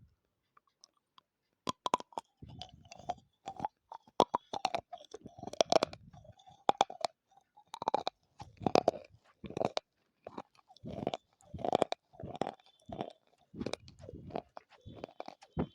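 Dry clay chunks (Punjab ki mitti) bitten and crunched in big bites, then chewed, close to the microphone. Sharp, brittle crunches start about two seconds in and keep coming in quick irregular runs, with grinding chewing between them.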